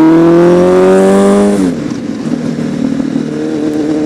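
Honda CBR1000RR Fireblade's inline-four engine accelerating hard, its note climbing steadily. About one and a half seconds in the pitch drops abruptly, then the engine holds steady and starts climbing again near the end.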